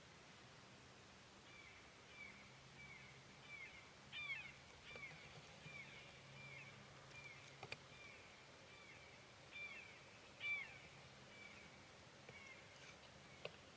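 A songbird singing a long run of short, clear down-slurred whistled notes, about two a second, some louder than others, with a faint low hum underneath and a single sharp click midway.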